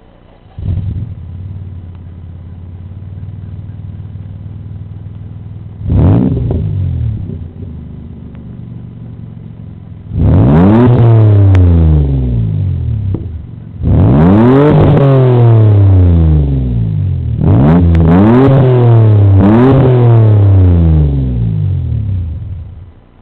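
1995 Mercury Villager van's 3.0-litre V6 exhaust: the engine catches about half a second in and settles to a steady idle, gets one quick blip of the throttle, then is revved up and let fall four times in long pulls, the pitch climbing and sinking each time. The sound stops near the end.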